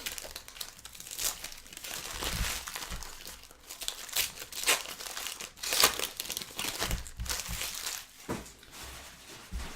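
Plastic wrappers of trading card packs being crinkled and torn open by hand, in irregular rustling bursts.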